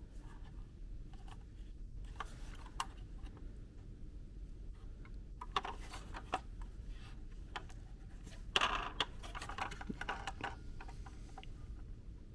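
Scattered small clicks and taps of a plastic toy truck bank being handled and turned over, with a denser run of rattling clicks about eight and a half seconds in.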